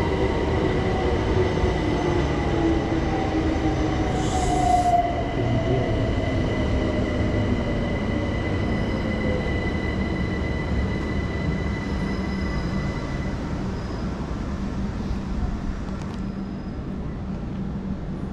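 Electric train slowing down, its traction-motor whine falling steadily in pitch over a continuous rail rumble, with a short hiss about four seconds in.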